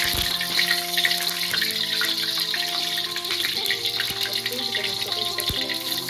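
Ginger, shallot and garlic spice paste (rempah tumis) sizzling and crackling in hot oil, under background music with held notes.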